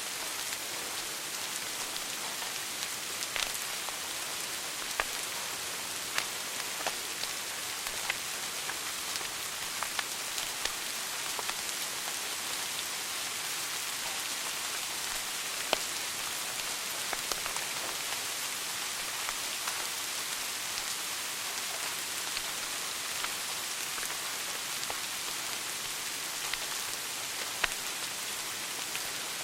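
Wood fire burning in a fireplace: a steady hiss with irregular sharp crackles and pops scattered throughout.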